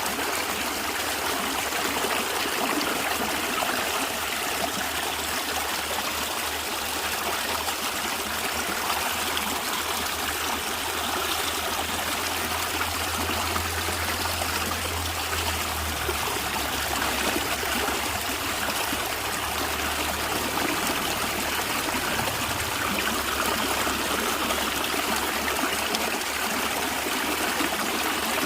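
A natural stream flowing and gurgling steadily, a continuous even rush of water.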